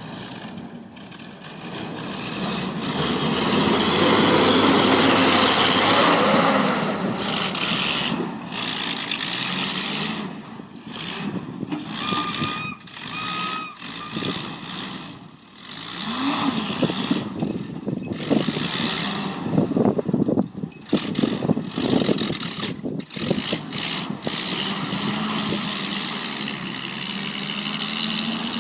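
Bombardier SW48 sidewalk plow's engine running, its level rising and falling, with two short high beeps near the middle.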